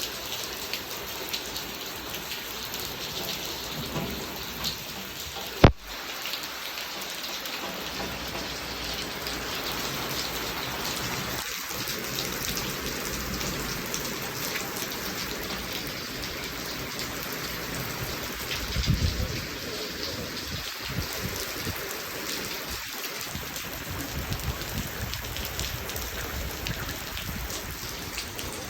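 Rain falling steadily on surfaces. A single sharp click comes about six seconds in, and a low rumble of thunder swells about two-thirds of the way through.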